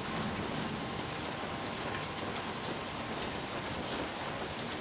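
Steady rain falling: an even, unbroken hiss of rain on the ground.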